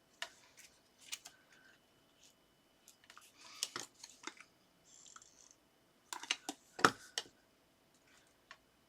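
Paper and card pieces being handled and pressed down on a craft table: scattered small clicks, taps and rustles, with a louder knock about seven seconds in.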